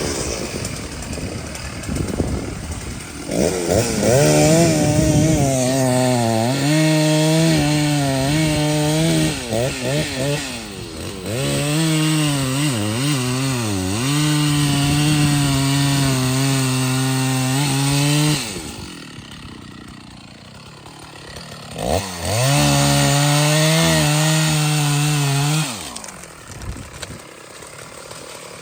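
Large chainsaw at full throttle cutting trembesi wood, its pitch sagging and recovering under load. It drops to idle after about fifteen seconds, revs up and cuts again for a few seconds, then drops back near the end.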